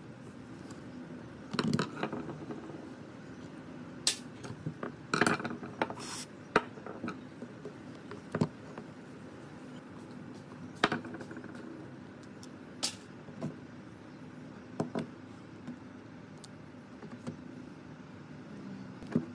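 Scattered clinks and knocks of small metal parts and hand tools being handled during a power-tool teardown, at irregular intervals over a faint steady hum.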